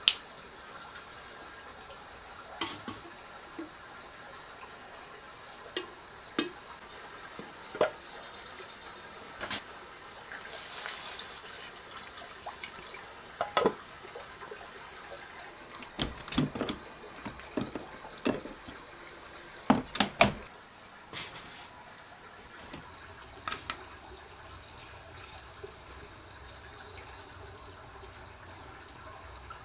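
Scattered clicks and knocks of objects being handled and set down, with a short hiss about ten seconds in and a cluster of louder knocks a few seconds later.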